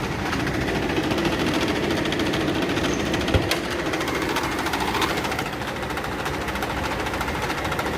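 Nissan Pathfinder V6 running with a fast, steady rattle from the engine cooling fan, which has play in it, a sign of a worn, loose fan.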